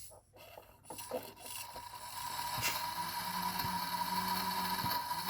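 Air blown through a coffee machine's flow meter and water-intake line, a steady hiss with a whistling tone that shows the line is open, not clogged. It starts about a second in and grows louder about two seconds in.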